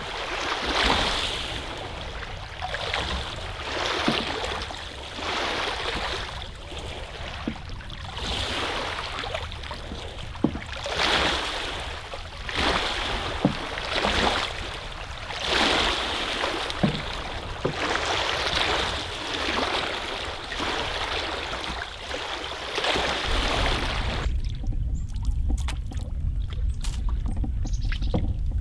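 Canoe paddle strokes swishing through lake water, one about every one and a half to two seconds. Near the end the strokes stop and a low rumble is left.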